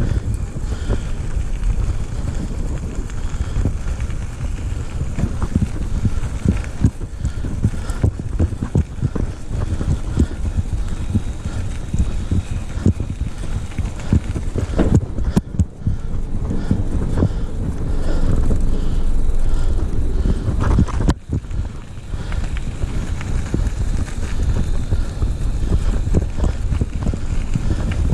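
Wind buffeting the microphone as a low, steady rumble, with frequent knocks and rattles from riding over a rough trail.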